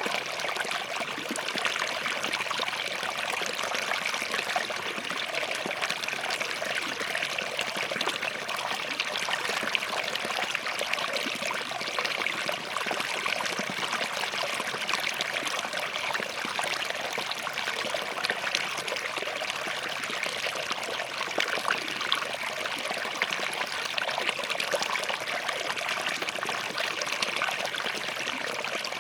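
Small forest stream flowing over and between rocks, a steady splashing trickle.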